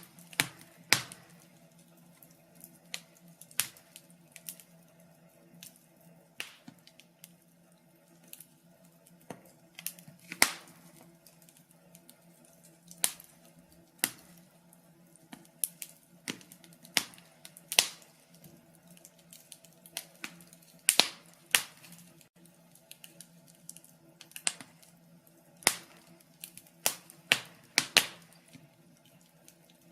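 Wood fire crackling in a fireplace: irregular sharp pops and snaps of varying loudness, a handful much louder than the rest, over a faint steady hum.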